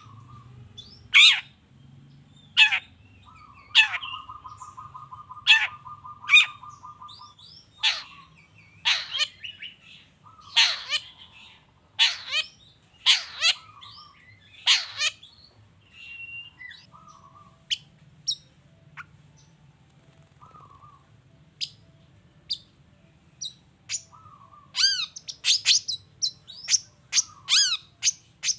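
Long-tailed shrike (cendet) singing: loud, sharp notes that sweep downward, repeated every second or two, with a rattling trill about four seconds in and a quick flurry of notes near the end.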